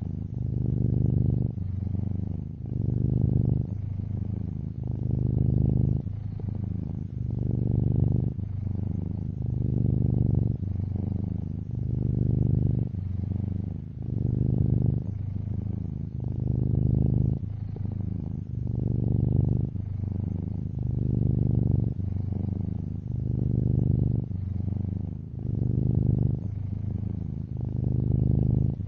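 Domestic cat purring steadily, a low rumble that swells and eases in a regular cycle of about two seconds as the cat breathes in and out.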